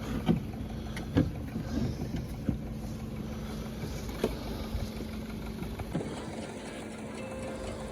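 A car engine idling steadily, the running donor car for jump-starting a flat battery, with several sharp clicks and knocks as cables and clamps are handled. The steady hum fades about six seconds in.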